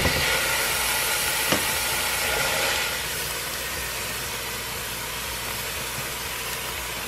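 Steady sizzle of sofrito and garlic frying in coconut oil in a pot, with two light knocks, the second about a second and a half in.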